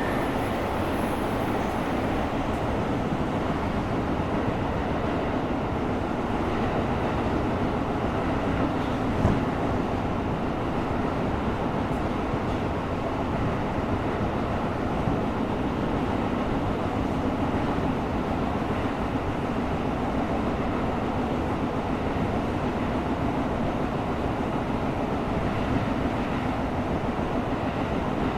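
Tokyo Metro 17000 series subway train running between stations, heard from inside the car: a steady rumble of wheels on rail with a faint steady hum. A single thump comes about nine seconds in.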